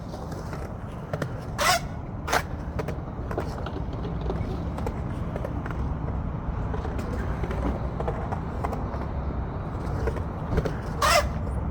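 Skateboard rolling on concrete under a steady low wind rumble on the microphone, with two pairs of short, sharp scraping clacks, one pair a couple of seconds in and another near the end.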